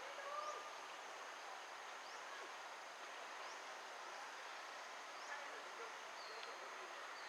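Steady outdoor background hiss with a few faint, short, high bird chirps spread through it.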